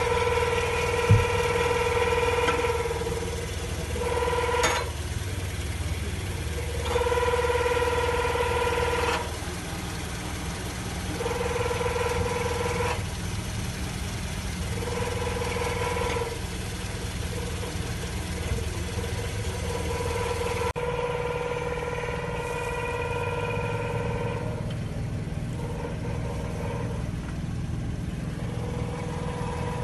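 Toyota RAV4 running at idle, with a pitched tone from the exhaust that comes and goes in spells of a second or two. The noise comes from the muffler joint, where the graphite cone gaskets are worn and due for replacement.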